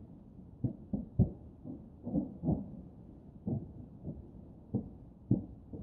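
Distant aerial firework shells bursting, heard as about ten dull, irregular booms with no high crackle, the loudest about a second in.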